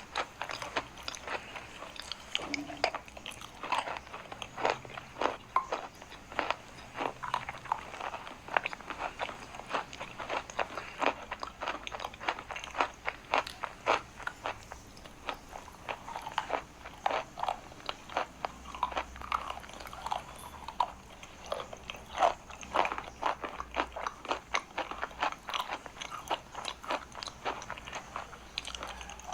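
Chalk being bitten and chewed: sharp crunches coming several a second without a break.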